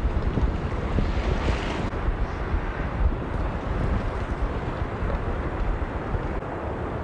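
Strong gusting wind buffeting the microphone: a low, uneven rumble with a brief hiss about a second and a half in.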